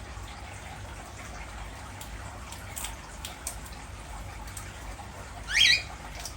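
A cockatiel gives one short rising chirp near the end, over a low steady background hum with a few faint clicks before it.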